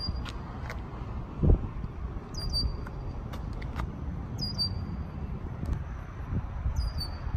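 A bird calling over and over: one short, high chirp about every two seconds, four times in all, over a steady low rumble, with one dull thump about one and a half seconds in.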